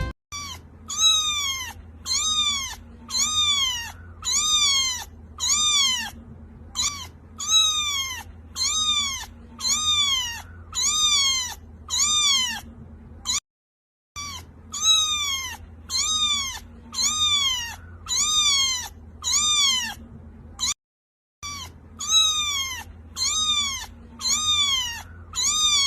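A cat meowing the same high, arching meow over and over, about once a second, in three runs broken by short silences. The calls are identical in shape, like one meow played on a loop.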